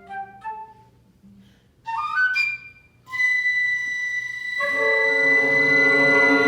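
Woodwind and cello ensemble playing. A run of quick notes fades out. After a short pause a flute sweeps upward and holds a long high note, and lower sustained notes join it about halfway through.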